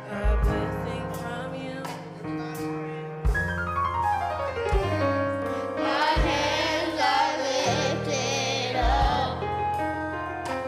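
Gospel music: keyboard chords over deep bass notes, with voices singing in about halfway through.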